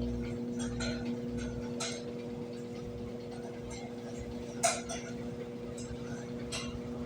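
Brastemp 17 kg washing machine spinning: a steady motor hum with a low tone and its octave, broken by a few sharp clinks, the loudest about two-thirds of the way through.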